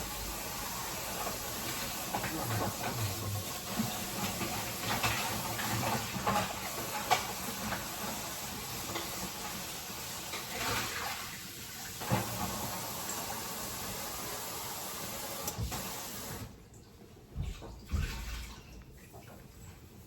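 A pot of water bubbling at the boil: a steady rush of water noise with small irregular pops, cutting off suddenly about sixteen seconds in, followed by a couple of soft low knocks.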